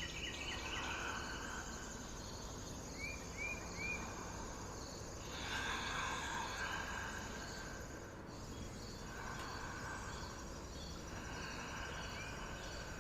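Faint outdoor chorus of insects chirping steadily. About three seconds in, a bird gives three quick chirps.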